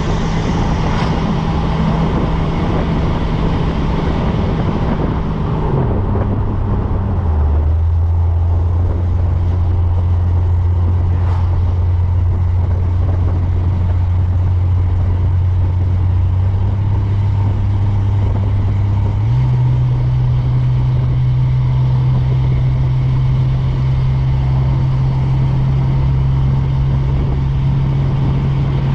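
Newly swapped-in engine of a vehicle being driven on a test drive: a steady low drone whose pitch steps down twice, about six and seven seconds in, and steps back up about two-thirds of the way through as engine speed changes.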